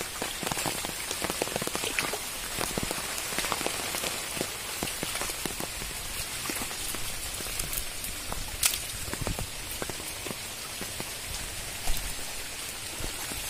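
Steady rain falling on shallow, muddy floodwater: an even hiss dense with small drop ticks. Two louder, sharper knocks stand out, about nine and twelve seconds in.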